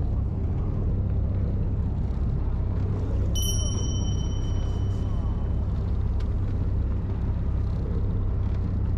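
Fishing boat's engine running with a steady low rumble. About three seconds in, a thin high steady tone sounds for about two seconds.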